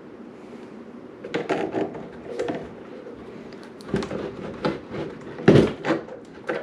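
Irregular knocks and clicks of hand tools and parts being handled on a hard work surface, the loudest knock about five and a half seconds in.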